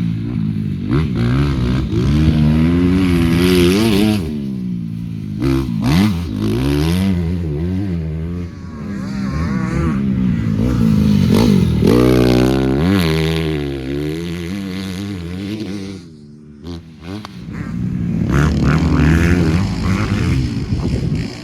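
Motocross dirt bike engine being ridden hard, revving up and down again and again as the throttle opens and closes through the gears. About three-quarters of the way through the throttle shuts off briefly, then the engine revs back up.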